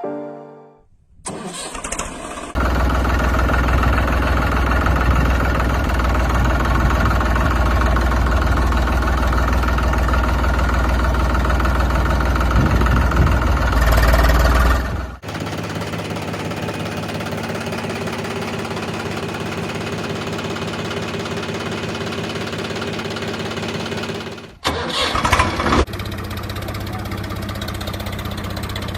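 An engine starting, then running steadily in cut-together stretches: a loud steady run with a deep rumble until about fifteen seconds in, then, after an abrupt change, a quieter steady run. A short louder burst comes about twenty-five seconds in.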